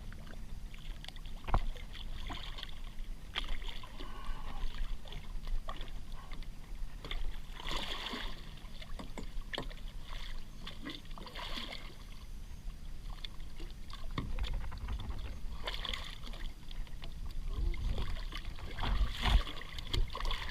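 Water slapping and sloshing against a small boat's hull in a choppy channel, in short splashy swashes every few seconds, over a steady low wind rumble on the microphone, with a few light knocks on the hull.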